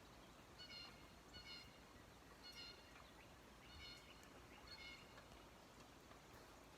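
Faint, short high-pitched bird chirps, about six of them, spread through otherwise near-quiet outdoor air.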